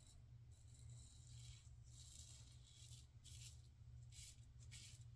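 Near silence: a steady low room hum with a few faint, soft rustles.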